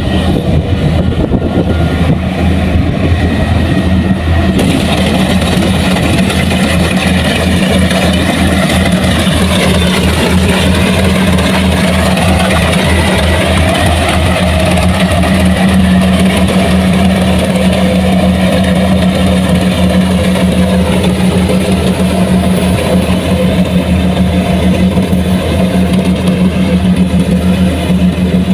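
Large farm machine's diesel engine running steadily close by, its pitch shifting slightly in the middle.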